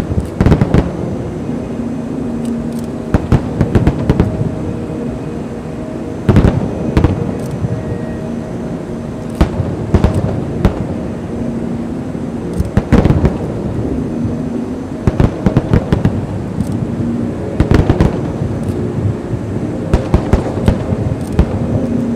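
Fireworks going off: sharp bangs, often several in quick succession, in clusters every few seconds, over a steady background noise.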